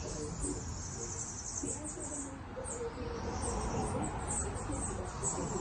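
Bees buzzing among tree blossoms, their hum wavering up and down as they fly past, with repeated high chirps over it.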